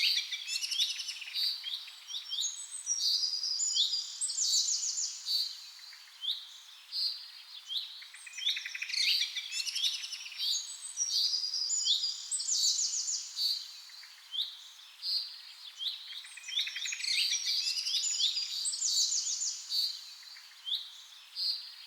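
Small birds chirping and twittering, with short rising notes and fast high trills; the same run of calls recurs about every eight to nine seconds.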